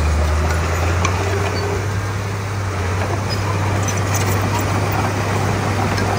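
Diesel engine of heavy earthmoving machinery running steadily under load, a deep, even hum that eases slightly in the middle, with a few light clanks.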